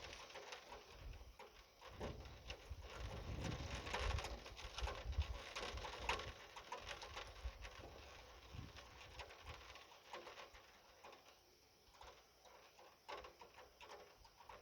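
Rain falling, heard as a steady hiss dotted with many small drop ticks, with some low rumbling that eases off in the second half.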